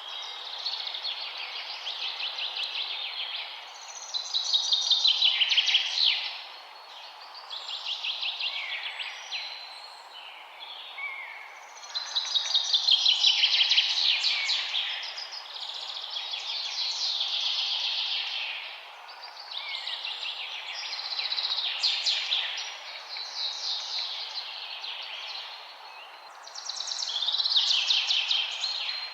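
Songbirds singing in the forest: one trilled, rapidly pulsing song phrase after another, with short gaps between them, over a steady background hiss.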